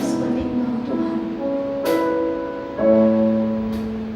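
Worship band music: sustained keyboard chords changing about once a second, with a cymbal hit about two seconds in, between sung lines.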